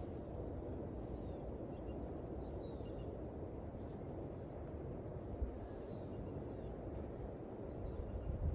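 Steady low outdoor rushing noise with a few faint, short bird chirps scattered through it, one sharper high chirp about five seconds in, and some low thumps near the end.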